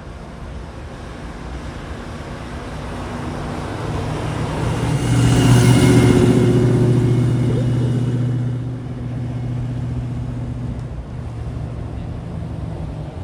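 A classic car's engine running as the car drives past, growing louder to a peak about halfway through and then fading away.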